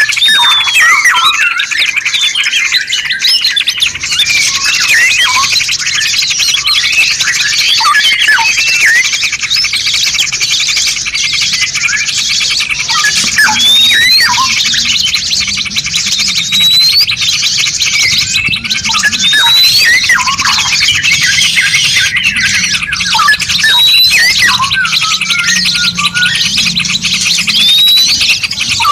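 Several songbirds singing over one another: a dense, continuous high chatter with short rising whistles every few seconds and scattered lower chips.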